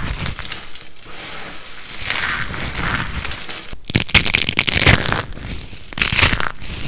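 Dry soap crunching and crumbling under pressure, a steady run of crisp, crackly crunches with louder ones about four and six seconds in.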